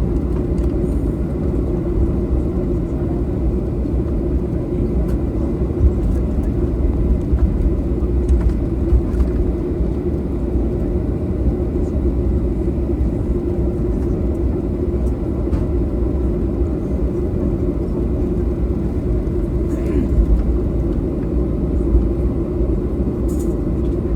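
Steady low rumble and hum inside the cabin of a Boeing 737-800 on the ground at low power, from the jet engines and air system.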